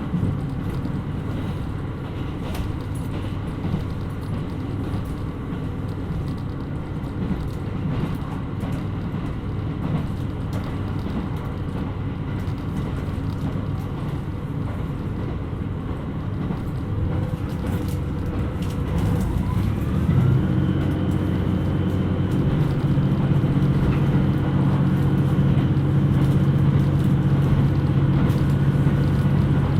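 Kiha 127 series diesel railcar running along the line, a steady rumble. About two-thirds of the way through a brief rising whine is followed by a steady engine drone that sets in and grows louder, as power is applied.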